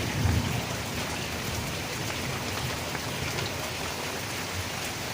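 Steady rain falling, an even hiss with many small drop impacts pattering on surfaces.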